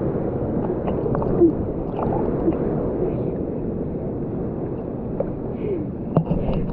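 Rushing, gurgling river water heard muffled through a waterproof camera housing in or under the water, with small knocks and bubbling.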